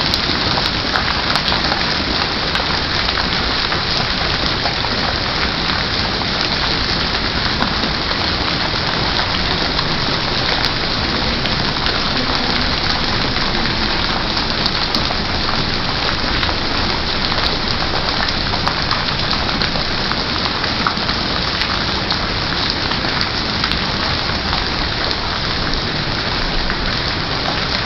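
Heavy rain falling steadily and pattering on surfaces.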